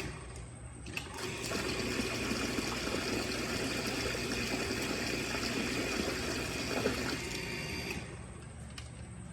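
Restored electric automatic pressure water pump running, a steady motor hum under the rush of pumped water. The water rush dips briefly just after the start and falls away about eight seconds in, leaving a quieter hum.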